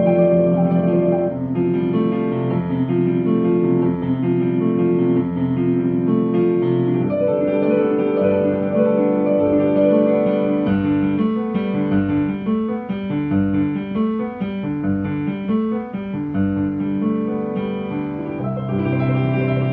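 Piano playing a flowing broken-chord accompaniment pattern ('flowing water' style), notes repeated quickly in a rocking, pendulum-like figure; the chord changes about seven seconds in.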